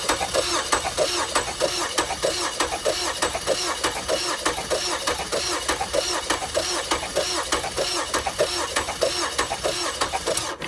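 2013 Ford Escape engine cranking on the starter with no cylinders firing, with an even rhythmic beat from the compression strokes, for a compression test on cylinder 2. It stops near the end.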